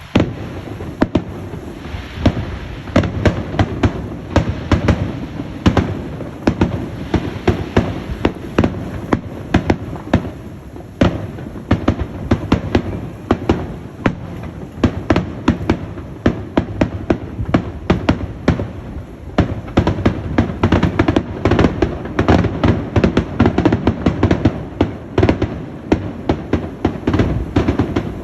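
Hurricane Ian's storm wind with a dense, irregular clatter of sharp cracks and rattles, several a second, over a steady rushing noise.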